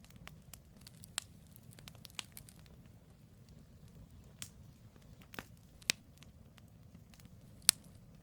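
Firewood campfire crackling: several sharp pops and snaps over a low steady rumble, the loudest pop near the end.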